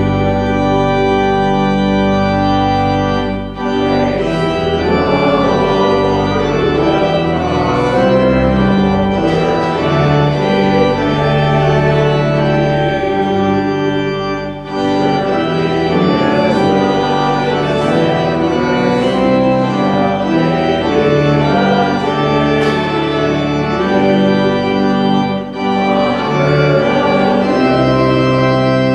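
Organ playing a slow piece in sustained chords, with brief breaks between phrases.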